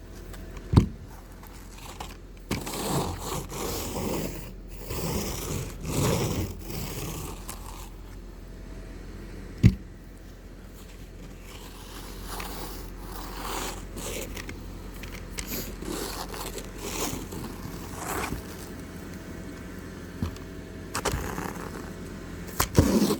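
Snow being cleared off a car: irregular scraping and brushing strokes, with two sharp knocks, one about a second in and one near the middle.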